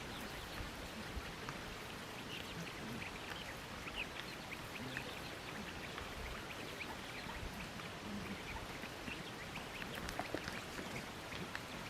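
Birds making many short, high chirps and peeps scattered throughout, over a steady rushing noise.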